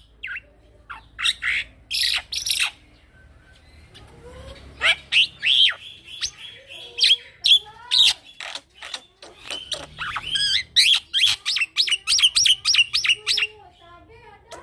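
Young male black-winged myna (jalak putih) singing in fast runs of short chirps, whistles and harsh squawky notes. There is a brief lull about three seconds in, then a long dense run of calls until near the end.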